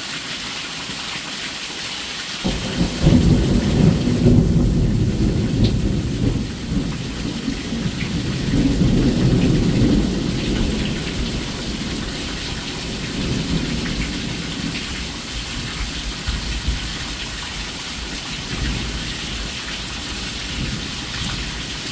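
Steady heavy rain hissing, with a long roll of thunder that breaks in about two and a half seconds in, rumbles loudest for several seconds and slowly dies away, followed by fainter rumbles later.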